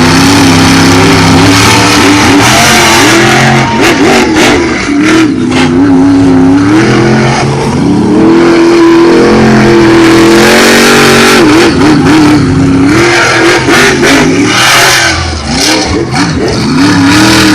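Monster truck engines at full throttle, revving hard, the pitch climbing and dropping again and again as the drivers work the throttle. The sound is very loud throughout.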